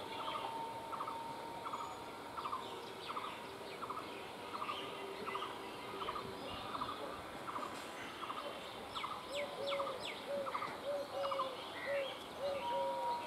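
Birds calling: a steady series of short double notes, joined about two-thirds of the way in by a lower short call repeated about twice a second, with quick high chirps scattered through.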